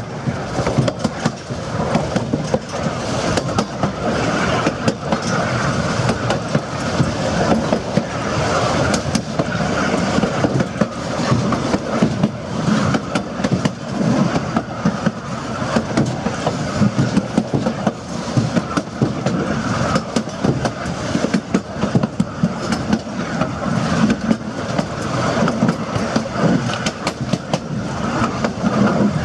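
Narrow-gauge railroad passenger car rolling along the track: a steady rumble with frequent sharp clicks and clatter from the wheels over the rails.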